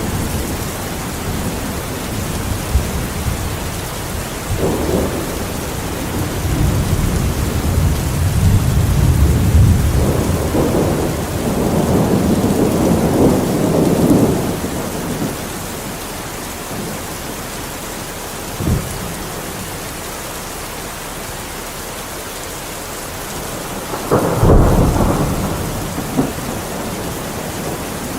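Steady rain falling, with rolling thunder that rumbles low through the middle, a short thud a few seconds later, and a sharper clap of thunder near the end.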